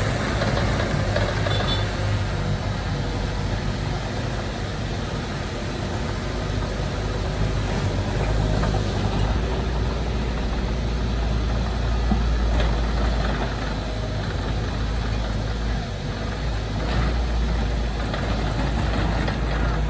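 Diesel engines of heavy earthmoving machinery running steadily with a deep low rumble, somewhat heavier from about halfway through.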